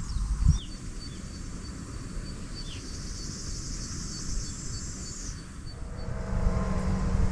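Outdoor ambience: insects trilling in a high, even pulse and a few short bird chirps. A low engine hum builds near the end.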